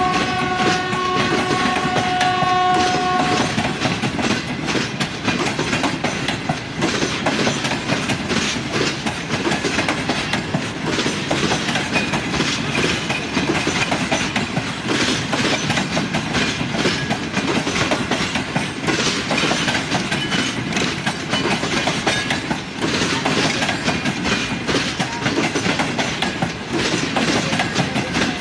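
Air horn of the Greenline Express's GEU-40 diesel locomotive sounding one held chord that stops about three seconds in. Then the train passes with a steady clickety-clack of wheels over rail joints.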